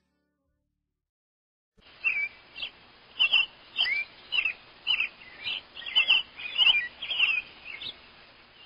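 A bird chirping: a quick run of short, sharp calls, several a second, starting about two seconds in.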